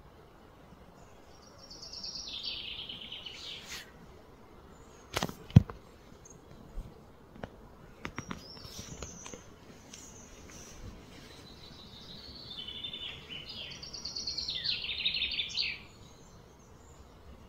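A songbird singing outdoors: two bursts of fast trilled notes that drop in pitch, a short one near the start and a longer one near the end. Between them come a few sharp knocks or clicks, the loudest about five seconds in.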